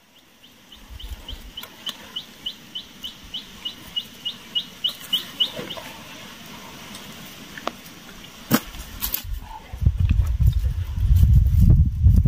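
A bird calling: a run of about twenty short, high upslurred notes that speed up and get louder, ending about six seconds in. Near the end a loud low rumble sets in.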